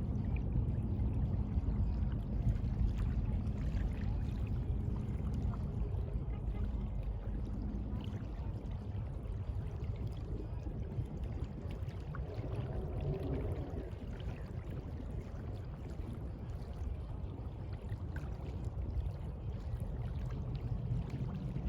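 Sea water washing and rushing in a steady, low, continuous wash.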